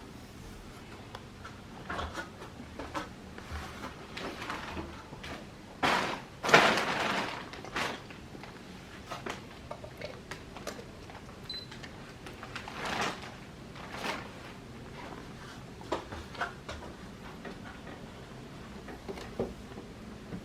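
Plastic clicks, knocks and rattles of an air conditioner's indoor-unit cover and panels being handled and snapped into place, with a louder scraping rustle about six seconds in and another around thirteen seconds.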